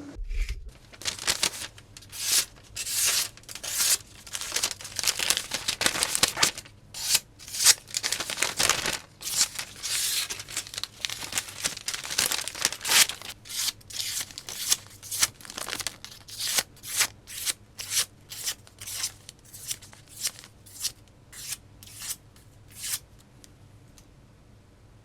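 Restored oversized knife making a long run of slicing cuts through something that tears like paper. Each cut is a short, sharp tearing stroke; they come thick and uneven at first, then settle into a steady rhythm of about one and a half a second before stopping near the end.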